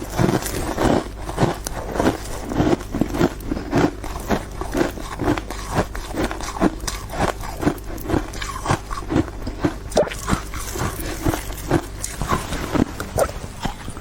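A person biting and chewing ice close to the microphone, crisp crunches about two to three a second.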